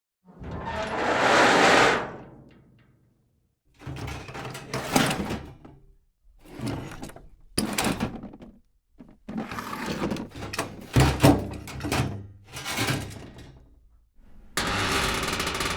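Heavy bunker door sound effects. A hissing surge swells and fades over the first few seconds, followed by a run of separate mechanical clunks, thuds and scrapes of the door and its locking gear. Near the end a steady hiss starts.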